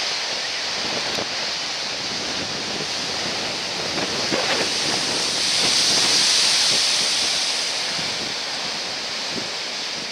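Sea waves surging and breaking, with wind rushing on the microphone. The roar swells and peaks about six seconds in, then eases.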